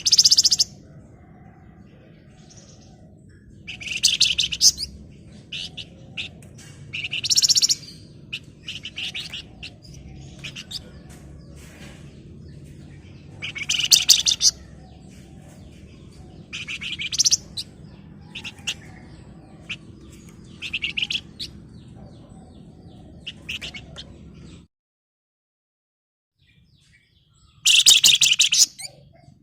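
Flamboyan songbird singing in full voice: repeated fast, rattling trilled bursts (ngebren) of about half a second to a second each, every few seconds, with short chattering chirps (nyerecet) between them. A faint low hum sits underneath and cuts out suddenly shortly before the last loud burst.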